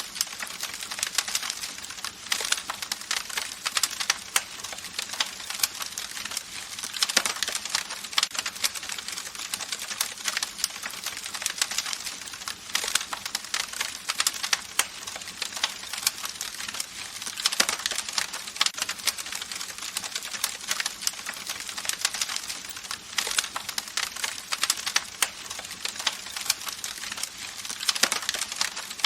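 Campfire crackling: a dense run of small irregular snaps and pops with an occasional louder pop.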